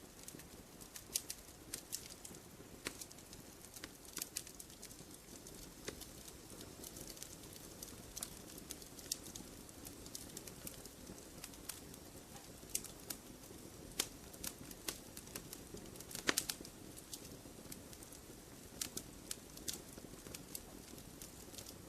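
Wood campfire crackling: scattered sharp pops and snaps at irregular intervals over a soft, steady hiss of burning, with a small flurry of pops about two-thirds of the way through.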